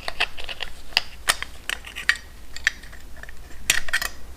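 Hand tools clicking and tapping against small metal parts in an irregular string of sharp clicks, with a quick cluster near the end, while the screws on a motorcycle carburetor's throttle cover are taken out.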